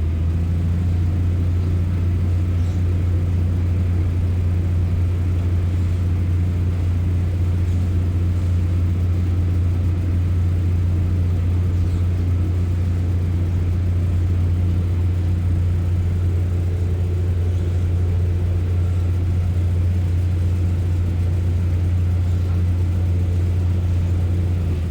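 Class 144 Pacer diesel railbus under power, its underfloor diesel engine held at steady revs as a constant deep drone with a rumble beneath. It comes up to full strength at the start and eases back near the end.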